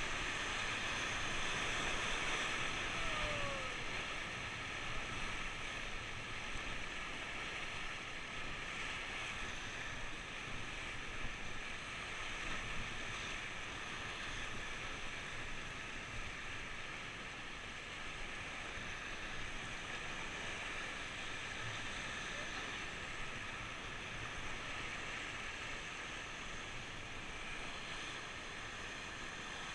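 River rapids: a steady hiss of fast-flowing whitewater that holds even throughout.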